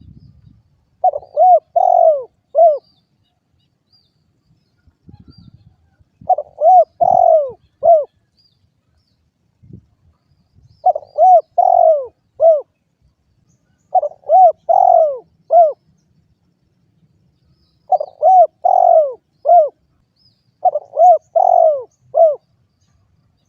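Spotted dove (derkuku) cooing: six repeated phrases, each a quick run of four or five short, rounded coos, every few seconds.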